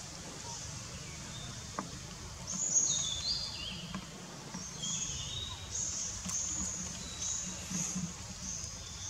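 Forest ambience with birdsong: a string of short high notes, roughly one a second, with a quick run of falling notes about three seconds in, over a low background rumble.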